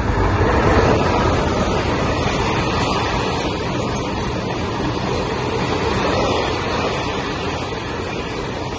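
A freight train passing close by at speed behind an electric locomotive: the locomotive goes by in the first second or so, then a steady noise of covered goods wagons' wheels running on the rails.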